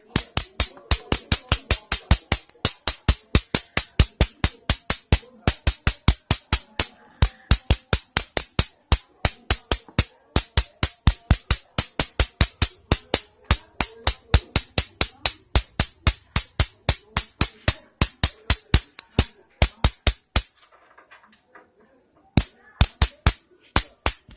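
Spark plug fed by a mosquito-bat high-voltage circuit, snapping in a rapid, regular train of sharp clicks, about five a second. It stops for about two seconds near the end, then starts again.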